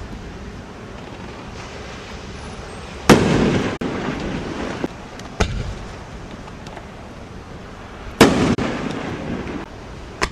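A 500-gram consumer fireworks cake firing 3-inch aerial shells. Two loud booms come about five seconds apart, each trailing off in a rumble, with a few sharp single pops between and after them.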